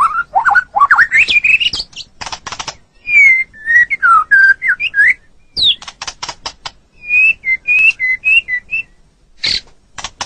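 White-rumped shama (murai batu) singing: loud, varied whistled phrases that slide up and down in pitch, broken by bursts of sharp clicking notes.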